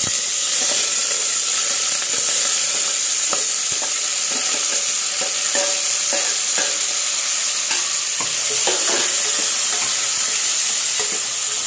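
Shallots, sliced coconut, crushed garlic, ginger and curry leaves sizzling steadily in hot oil in a steel pressure cooker, with light clinks and scrapes of a steel ladle as they are stirred.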